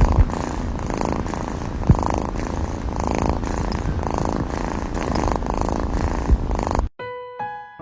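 Domestic cat purring loudly close to the microphone, a low pulsing rumble with a couple of brief knocks. It cuts off abruptly about seven seconds in, and soft piano music begins.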